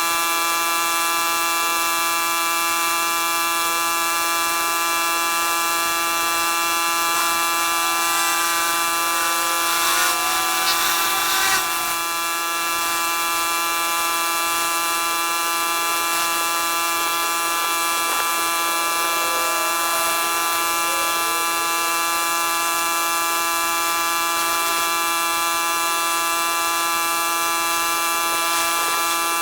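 Pressure washer running steadily, giving a constant high-pitched whine over the hiss of the water spray, with a brief change in the sound about ten to twelve seconds in.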